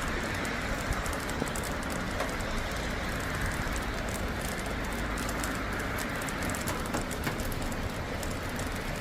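Steady rain falling during a thunderstorm, with many sharp ticks of single drops over a continuous hiss and a low rumble underneath.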